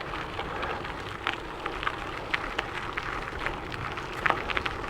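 Trek Checkpoint gravel bike's tyres rolling over a gravel trail: a steady crunching hiss with scattered small crackles and pops from loose stones.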